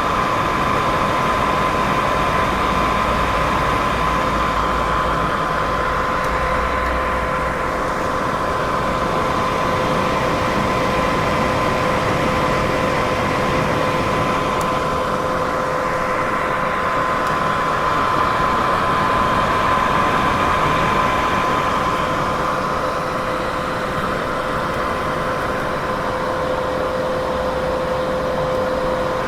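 Steady white noise for sleep: an even, unbroken hiss with a faint steady hum at two pitches underneath, swelling and easing slowly every several seconds.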